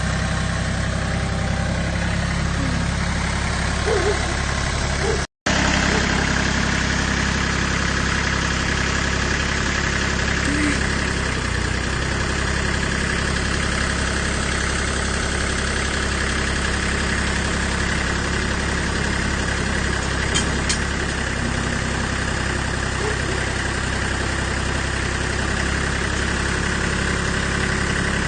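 Tractor engine running steadily at idle. The sound is broken once by a split-second gap about five seconds in.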